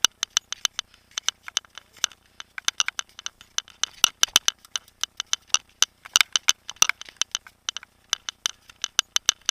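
Mountain bike rattling over a rough trail: a rapid, irregular run of sharp clicks and rattles.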